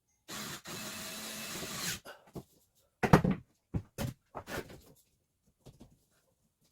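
Plywood ceiling panels being handled and fitted inside a bus: a noisy rush lasting under two seconds, then a handful of sharp knocks and bumps, the loudest about three seconds in.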